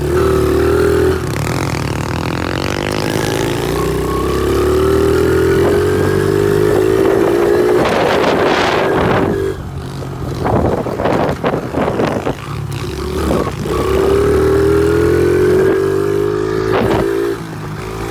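Honda XR70 pit bike's small single-cylinder engine under way, revs climbing steadily for several seconds. About nine seconds in the throttle comes off and the engine note breaks up amid rattling and rough noise for a few seconds, then the revs climb again and drop off shortly before the end.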